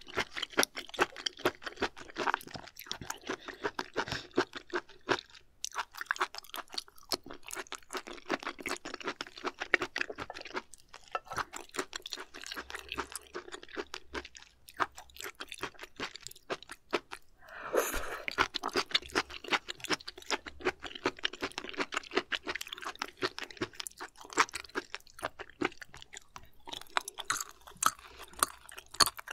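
Close-up crunchy chewing of raw shellfish sashimi: a dense run of quick, crisp crunches and wet mouth sounds. There is a short lull about five seconds in, and a brief louder, noisier moment about eighteen seconds in.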